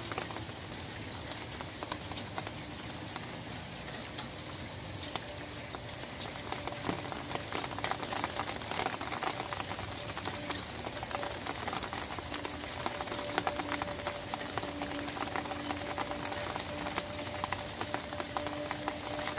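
Rain falling on an open umbrella, heard from underneath: a steady patter on the fabric canopy, made of many separate drop hits. The hits grow denser and a little louder about a third of the way in.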